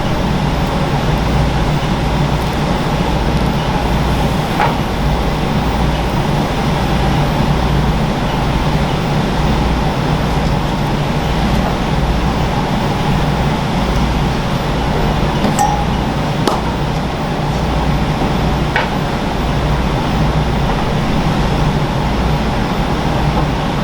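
Kitchen background of a steady machine hum, with a few light clinks and taps of utensils or dishes scattered through it.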